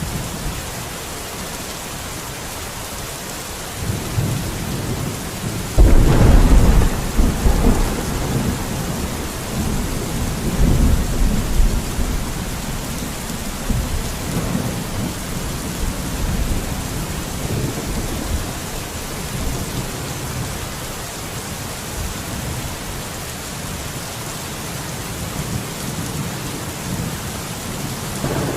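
Steady rain falling. About four seconds in, a low thunder rumble builds and breaks into a loud clap near six seconds, then rolls on for several seconds before fading back under the rain.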